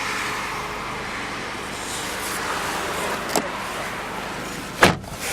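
TagAZ Aquila running at idle, heard from inside the cabin as a steady even hum. There is a light click about three and a half seconds in and a sharper click near the end.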